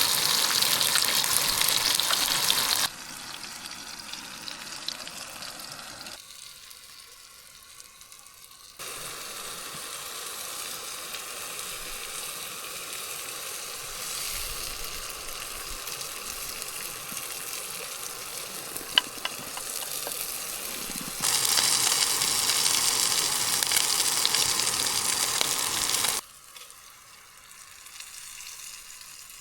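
Trout frying in a skillet: a steady sizzle, loud at the start and again from about two-thirds of the way through, softer in between, with its level changing abruptly several times. A single sharp click sounds a little past the middle.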